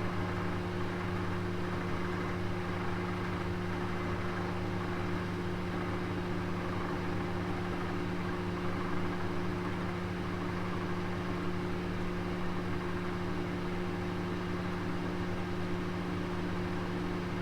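Oven running while roasting, a steady low hum with an even whirring rush over it.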